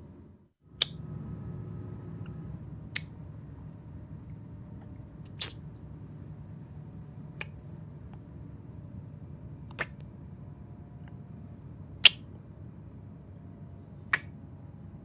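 Steady low rumble of a train interior, with a sharp click about every two seconds.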